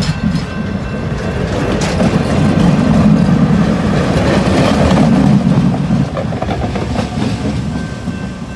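Passenger cars of a train rolling past at close range: a steady rumble of wheels on rail with clicks from the rail joints. It swells to its loudest in the middle and fades as the trailing diesel locomotive goes by near the end.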